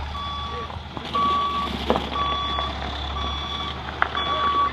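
Truck's reversing alarm beeping steadily, about one beep a second, over the low hum of its running diesel engine, with a couple of short knocks.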